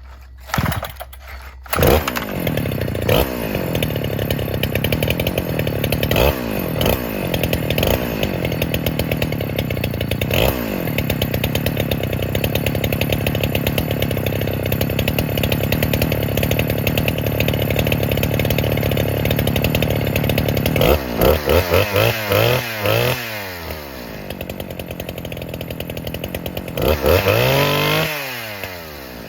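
NeoTec NH895 chainsaw, a large two-stroke clone of the Husqvarna 395XP, starting up and running while its carburettor is tuned on its first run. The engine catches about two seconds in and is revved up and let fall back several times. It runs steadily through the middle, then takes a quick series of throttle blips and one more rev before dropping back to idle near the end.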